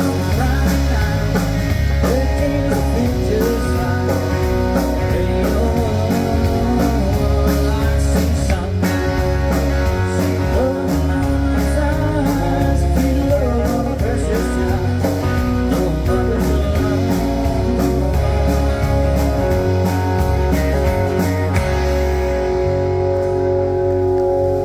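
Country band playing an instrumental passage: a lead guitar line over bass and drums with a steady beat.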